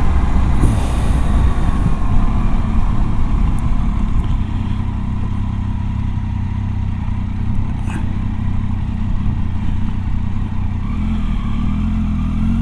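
Motorcycle engine running at low speed, its pitch falling slowly over the first several seconds as the bike slows, with a steady rumble throughout.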